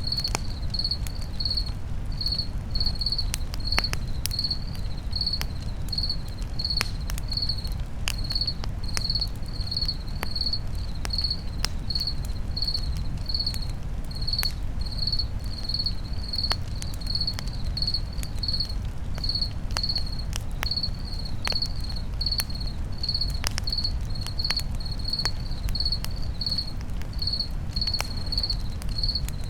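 Crickets chirping steadily at about two chirps a second, over a campfire crackling with scattered sharp pops and a low rumble.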